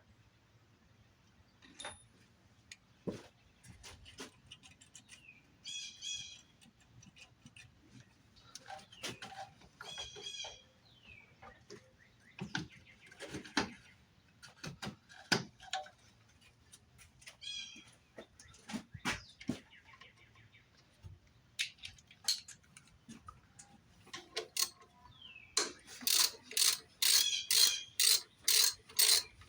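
Hand tools and car parts being worked: scattered clicks and knocks, with a few short high chirps. About 26 seconds in, a ratchet wrench starts clicking steadily, about three or four clicks a second, as a fastener is turned.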